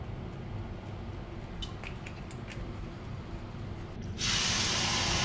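Scampi (prawns) tipped into hot olive oil in a nonstick frying pan start a loud, steady sizzle about four seconds in. Before that there are only a few light clicks over a low background.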